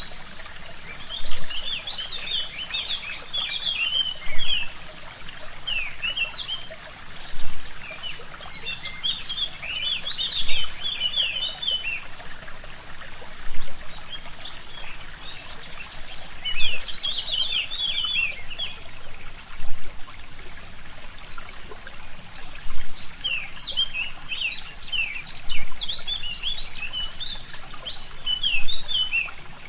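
A stream trickling and gurgling steadily, with a short louder surge about every three seconds, while a forest songbird sings phrases of quick high chirping notes several times over.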